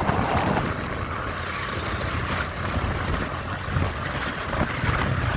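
Wind buffeting the microphone over a steady low rumble of road and engine noise from moving traffic.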